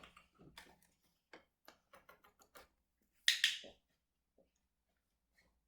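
A run of light ticks, then a louder, sharp double click a little over three seconds in from a dog-training clicker being used to load the clicker with puppies.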